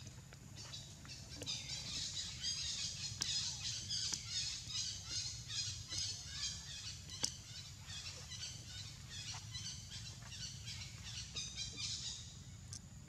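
Birds chirping in a rapid, continuous chatter of high notes, building up about two seconds in and fading near the end.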